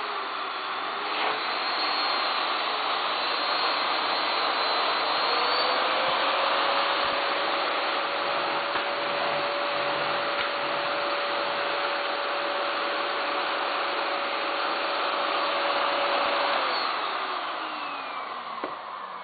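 Miele S8590 canister vacuum cleaner's 1200-watt motor running with a steady rush of air and a whine. The whine dips in pitch and climbs back in the first few seconds, then holds steady. Near the end it winds down, its pitch falling as the motor spins down after being switched off.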